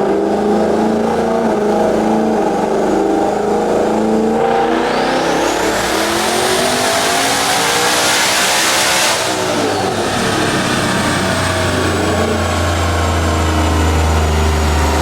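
Twin-turbocharged Coyote 5.0 V8 in an S650 Mustang making a full-throttle dyno pull at about 13 psi of boost: the revs climb for about five seconds with a rising turbo whistle, then the throttle closes about nine seconds in and the engine winds down, leaving a steady low drone.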